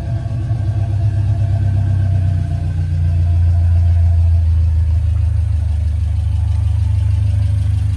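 Suzuki Sierra's swapped-in G16B 1.6-litre four-cylinder engine idling through its owner-built exhaust, a steady low drone that swells slightly midway.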